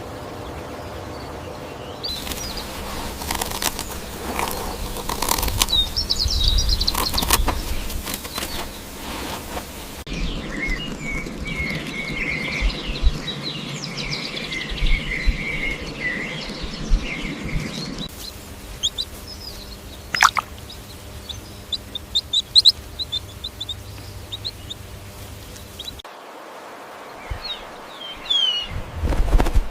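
Small birds chirping and calling in a run of separate outdoor recordings that change abruptly every several seconds, with short high chirps, a stretch of warbling song, and scattered sharp knocks or rustles.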